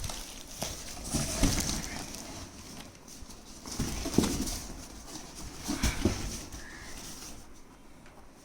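Cardboard box being handled and moved about, with rustling and a few knocks, loudest about a second and a half in, around four seconds in and near six seconds.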